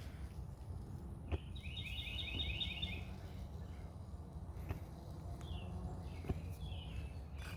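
A small bird sings a quick trill of rapidly repeated chirps for about a second and a half, then gives a few short chirps near the end, over a steady low rumble with a few faint clicks.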